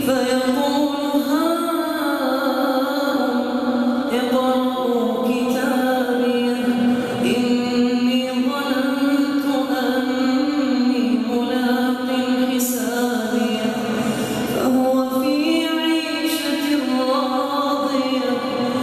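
A single reciter's voice chanting Arabic in the melodic style of Quran recitation, holding long drawn-out notes that step up and down in pitch, with brief pauses for breath.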